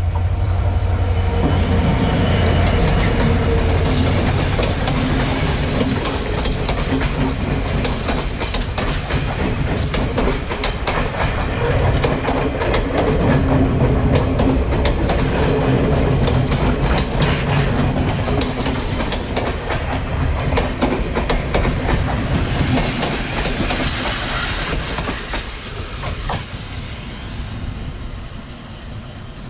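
Diesel passenger train passing close by: a low engine hum, then a steady rumble with wheels clattering over the rail joints. The sound fades away over the last few seconds.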